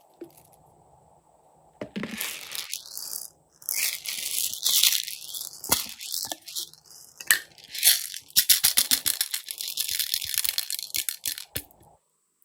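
Glossy slime being worked by hand, with dense crackling and popping that starts about two seconds in and stops shortly before the end.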